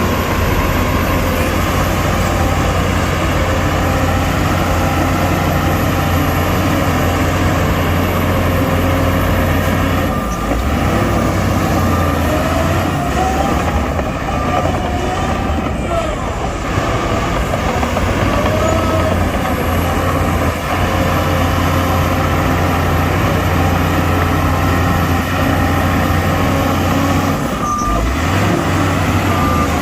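Heavy diesel machinery running steadily under load, with short squeals that rise and fall in pitch several times in the middle and again near the end.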